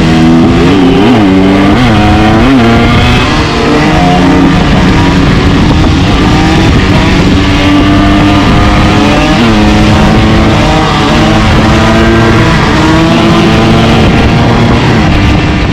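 125cc two-stroke dirt bike engine running under load, its pitch rising and falling sharply several times in the first few seconds as the throttle is blipped, then holding a steadier note with further swoops.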